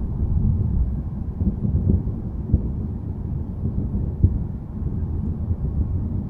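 Low, continuous rumble of distant thunder, with a few short sharper crackles about two seconds in and just past four seconds.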